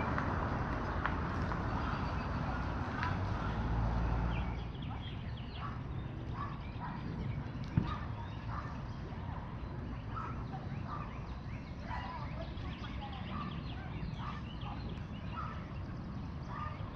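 Birds chirping and calling again and again. A steady rushing noise fades out about four and a half seconds in, and there is a single sharp click about eight seconds in.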